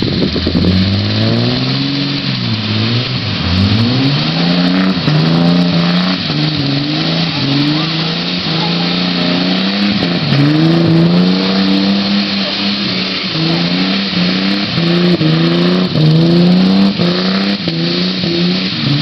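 Car engine revving hard and bouncing off its rev limiter: after two long climbs and drops in pitch, it holds high with the pitch chopping up and down about twice a second. A steady hiss of tyre squeal from donuts runs underneath.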